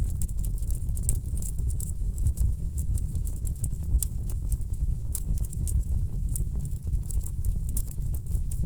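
Wood fire in a fireplace crackling, with many irregular sharp pops and snaps over a steady low rumble of burning logs.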